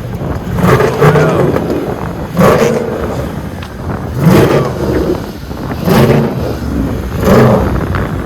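Car engine revving in repeated bursts, about five times, each rising and falling.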